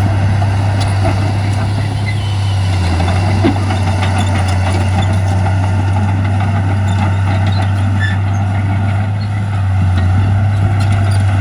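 Heavy diesel earthmoving machinery running steadily: a deep, constant engine drone, with one brief knock about three and a half seconds in.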